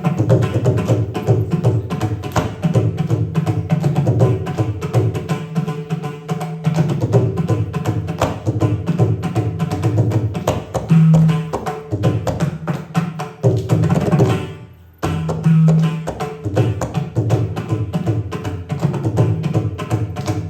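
Carnatic percussion: hand drums playing fast, dense rhythmic strokes over deep, ringing drum tones. The playing breaks off for a moment about fourteen seconds in, then carries on.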